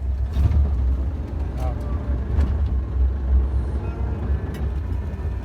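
Motorboat under way: a steady low rumble throughout, with faint voices now and then.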